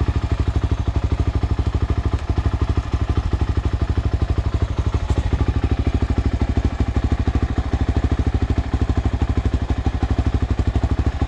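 Dirt bike engine idling steadily, with an even pulse of about ten beats a second.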